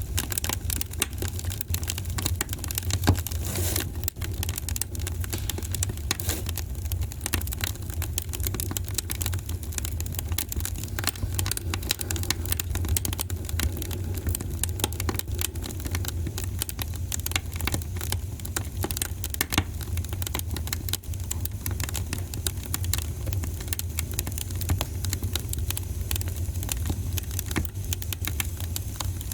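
Wood fire crackling in a fireplace: dense, irregular pops and snaps over a steady low rumble, with a sharper pop about three seconds in.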